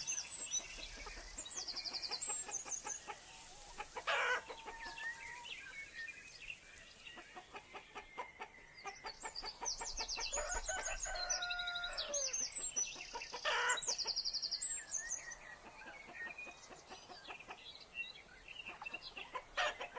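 Faint outdoor bird calls: high chirps and short whistled notes on and off, with a dense run of quick repeated clicking calls in the middle.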